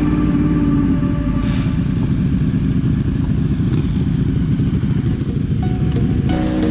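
Sport motorcycle engine running steadily, a dense low rumble without pauses.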